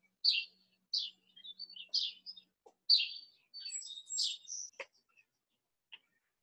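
A songbird singing: short bright notes repeated about once a second, then a quicker, more varied run of notes about three to four and a half seconds in.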